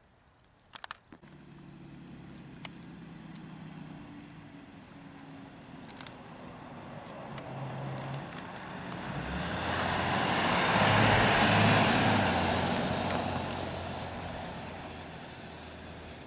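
A road vehicle driving past: its engine and tyre noise build up to a peak about eleven seconds in, then fade away. A few sharp clicks near the start.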